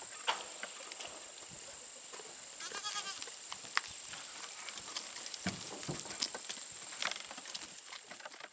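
A goat bleats once, a short quavering call about three seconds in, over a steady high-pitched tone and scattered small clicks and knocks.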